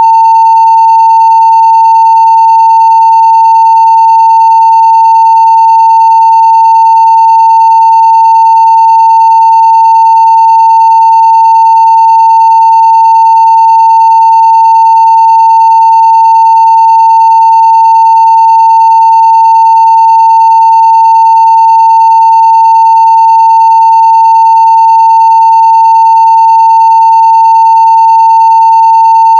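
A 900 Hz sine-wave test tone at full scale (0 dB), one pure, loud, unbroken pitch held steady.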